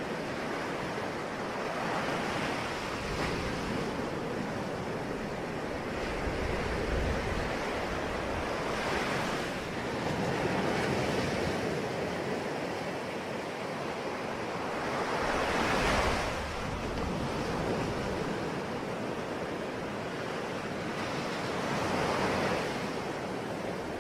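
Ocean waves breaking on a shore, a continuous wash of surf that swells and falls every few seconds, with one larger wave about two-thirds of the way through.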